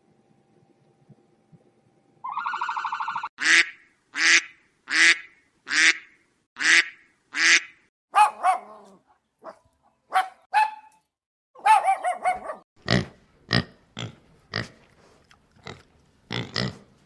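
An animal calling: six sharp, loud calls about a second apart, then a quicker, irregular string of calls. A short ringing tone sounds about two seconds in, just before the calls begin.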